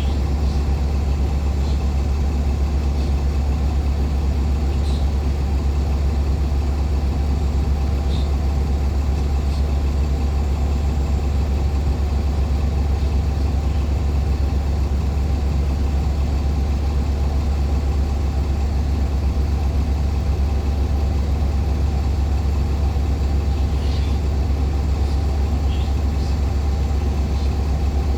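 Cummins ISL9 diesel engine of a 2014 NOVA LFS articulated hybrid city bus running steadily, heard from inside the cabin as an even, deep drone that does not change.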